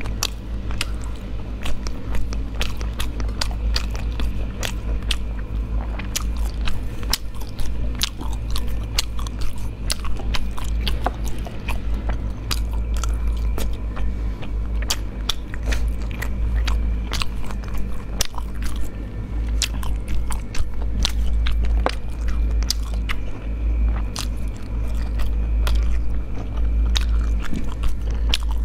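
Close-miked chewing of spicy snail meat, with frequent sharp clicks of teeth and shells, over a steady low hum.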